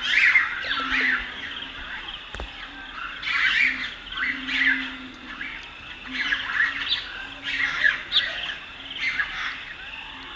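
Several birds calling and chirping together in repeated bursts of short, high notes, some of them harsh squawks, with a low steady tone coming and going underneath.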